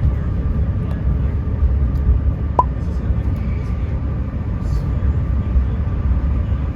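Prague tram running, a loud, steady low rumble of the wheels and running gear with a faint steady whine above it. About two and a half seconds in there is one short rising chirp.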